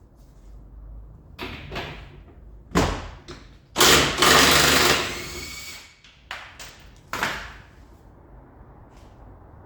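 Workshop metal clunks and knocks, with a longer loud scraping clatter of metal about four seconds in, during engine removal from a Ford Escort RS Turbo.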